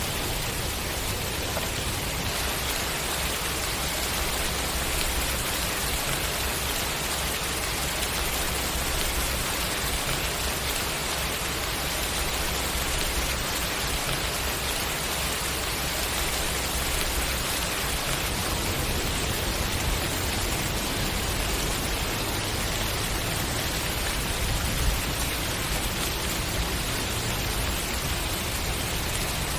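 Steady rain falling, an even rushing hiss of many drops with no let-up, and a single louder drop about 25 seconds in.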